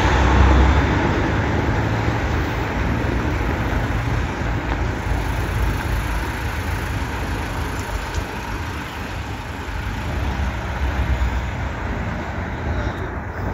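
Steady road-vehicle and traffic noise with a low rumble that swells and eases.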